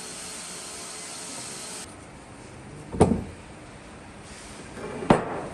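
A steady high hiss that cuts off a little under two seconds in, then two sharp knocks about two seconds apart.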